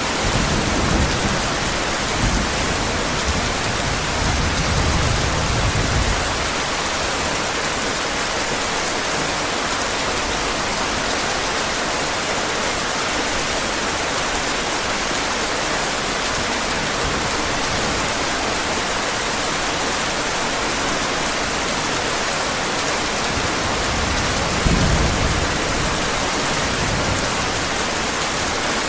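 Steady heavy rain, with low rumbles of thunder during the first few seconds and again near the end.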